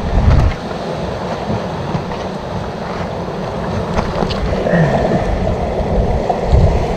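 Sea waves washing on the shore rocks, with wind buffeting the microphone in uneven low rumbles, strongest at the very start.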